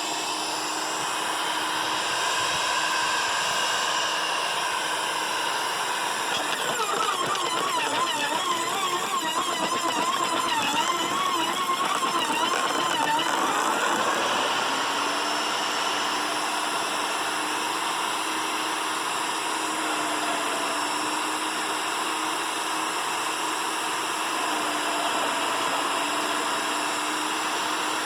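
Sun Joe 15-amp electric wood chipper running, with a steady motor hum. Between about six and fourteen seconds in, the pitch wavers and wobbles as the motor labours on a limb being chipped, then it settles back to a steady run.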